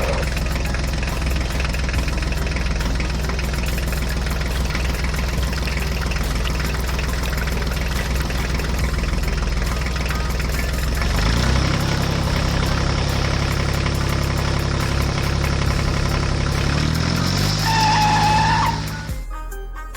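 Engine running with a steady drone; its pitch shifts about halfway through, rises briefly near the end with a short whistle-like tone, then the sound cuts off.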